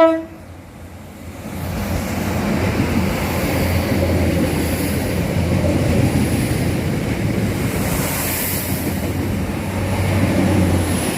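A six-car diesel multiple-unit train, two coupled Class 3000 units, running past close by. A steady rumble and rush of wheels on rail swells in about a second and a half in and holds.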